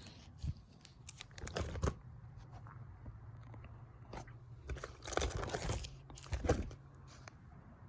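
Irregular crinkling and crunching noises close to the microphone, in three main spells, over a steady low hum.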